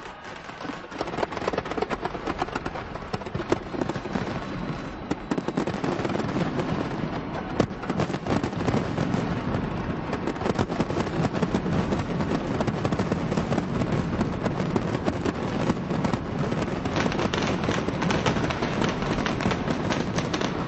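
A large fireworks display: a dense, continuous barrage of shell bursts and crackling, many bangs a second, building up about a second in and staying loud throughout.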